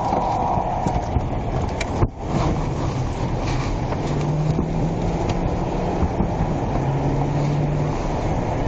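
Police patrol car driving: steady engine and road noise with wind noise.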